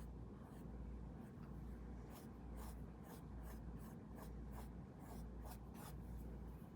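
Paintbrush strokes brushing paint onto the painting surface: faint, short scratchy strokes about two a second, over a low steady room hum.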